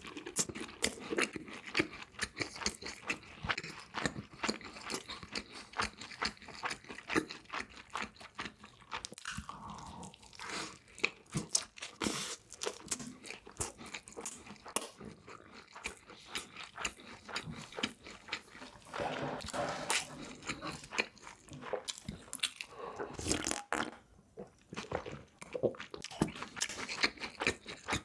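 A person chewing and biting crunchy food, with a dense run of crisp crunches and mouth sounds.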